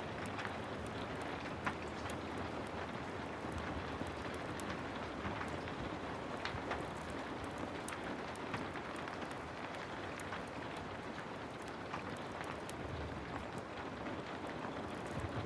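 Heavy rain falling steadily, an even hiss dotted with many sharp, scattered clicks.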